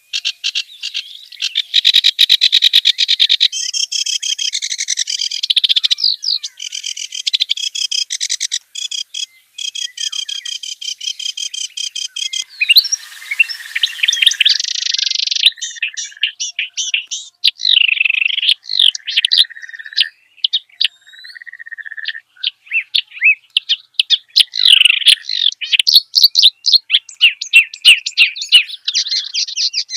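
Reed warbler (kerak basi) singing a long, varied song of fast repeated chattering notes, with a short hissing passage about halfway through.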